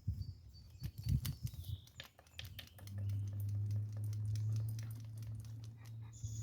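Light clicks and taps from handling a plastic chicken waterer. About three seconds in, a steady low hum begins, with faint high chirps above it.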